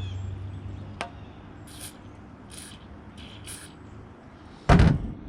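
Four short hisses of an aerosol spray lubricant being sprayed onto a seized gas-pack inducer motor to free it up, followed near the end by a loud thump.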